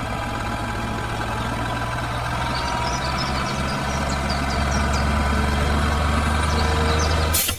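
A tractor engine running steadily with a low hum, getting a little louder, with faint bird chirps above it. It cuts off abruptly near the end.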